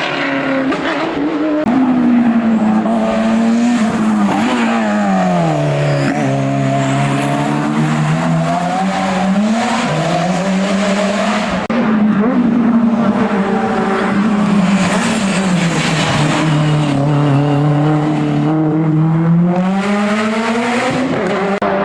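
Hillclimb race car engine running hard, its revs falling and climbing again several times as it works up through the gears between corners.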